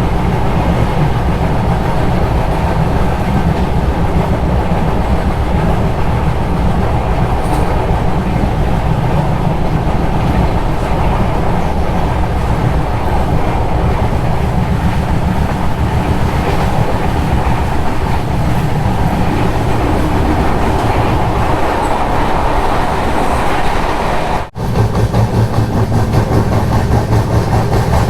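Train running on the rails: a steady rumble with the clatter of wheels over the track. The sound drops out for a moment near the end.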